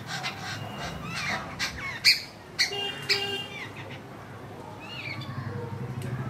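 Birds squawking and calling, a series of short, curving cries, with a few sharp clicks in the middle. A low engine drone builds up near the end.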